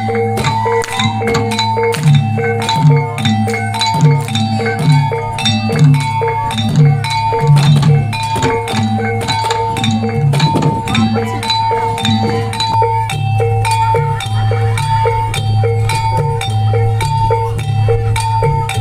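Reog gamelan accompaniment: tuned gongs striking a steady repeating two-note pattern over a low sustained tone, with dense hand-drum strokes that thin out about two-thirds of the way through.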